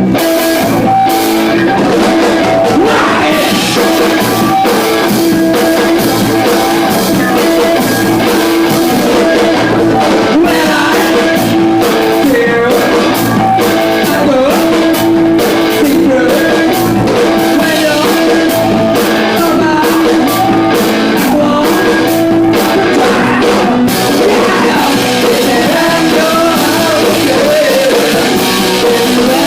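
Rock band playing live: guitar and drum kit, with singing.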